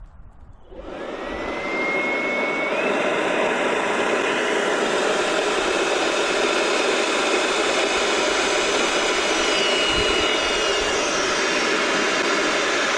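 Electric balloon pump switching on about a second in and running steadily, with a thin whistle that steps up in pitch as it fills a latex balloon.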